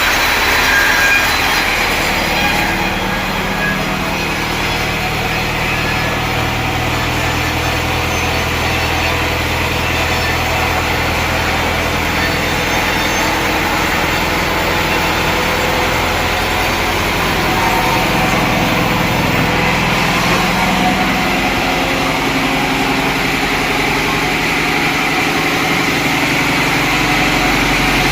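Sawmill machinery running steadily: a loud, even mechanical noise over an engine hum that shifts pitch a few times.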